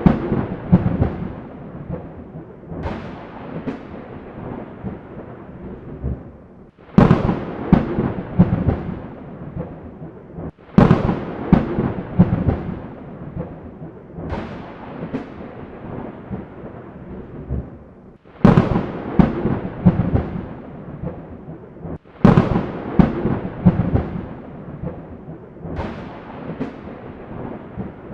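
Thunderstorm: sharp thunder cracks, each rolling off into a rumble, come about every four seconds over a steady hiss of rain.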